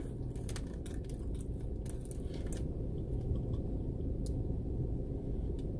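A person chewing a bite of breakfast sandwich with the mouth closed, making small soft clicks over the first few seconds and one more later, over a steady low hum inside a car.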